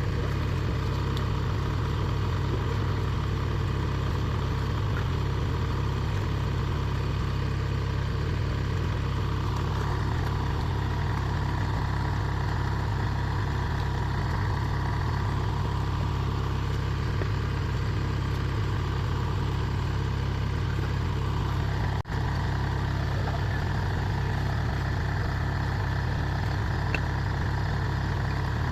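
Diesel engine of a Kubota DC70 Plus rice combine harvester running steadily, its tone shifting about ten seconds in and again shortly after twenty seconds, with a momentary drop-out just after that.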